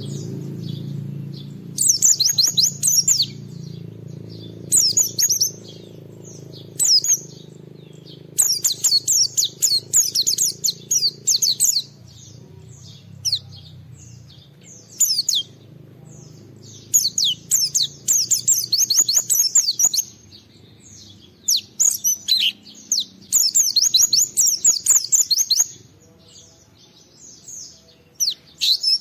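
A white-eye (pleci) in full song, giving bursts of rapid, high twittering notes that last one to three seconds each, separated by short pauses. A faint low hum runs underneath during the first half.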